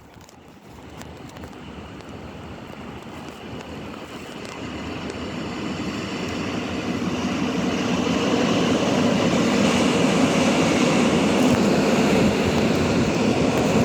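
Train running noise growing steadily louder over about eight seconds, then holding loud and steady.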